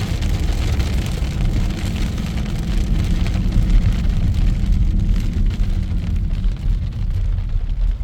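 Heavy rain mixed with hail pelting down, a dense hiss of countless small hits over a deep rumble that eases near the end.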